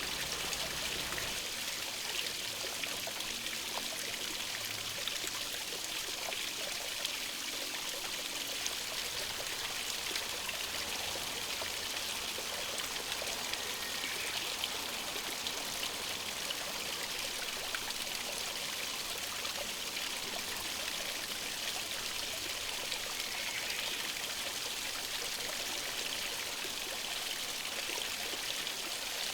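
A stream flowing steadily, a constant rushing of water with no break.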